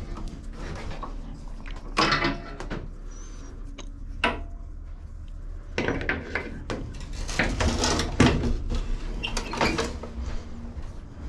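Intermittent clattering, knocks and scraping of hard parts and tools being handled while working on a lawn mower, loudest in a run of clatter in the second half, with a steady low hum beneath.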